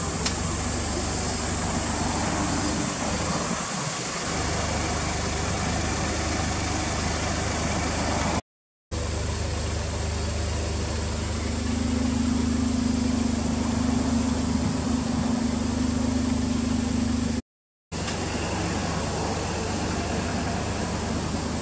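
Suzuki Alto Works HA36S's 660 cc turbocharged three-cylinder engine, fitted with a Monster Sport aftermarket muffler, idling steadily under a constant hiss. A steady hum joins for about five seconds past the middle. The sound is broken twice by brief drop-outs to silence.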